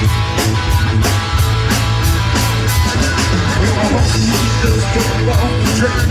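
Live rock band playing an instrumental passage: electric guitar, bass and drum kit, with a steady beat of drum hits.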